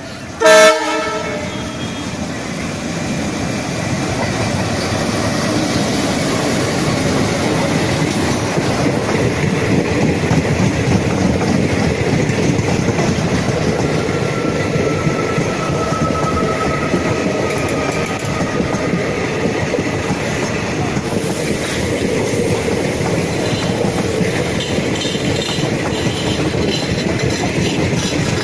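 Indian Railways WDG3A diesel locomotive sounding one short, very loud horn blast about half a second in, then the train running through at speed, its wheels clattering steadily over the rail joints.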